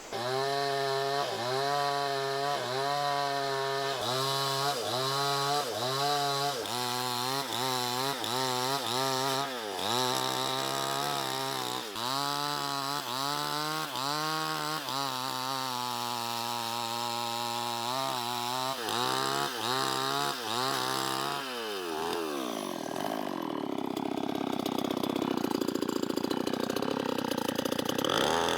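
Two-stroke chainsaw running at high revs and cutting wood, its engine note dipping and recovering over and over as the chain bites under load. About 21 seconds in the engine note falls away steeply to a lower, rougher running sound.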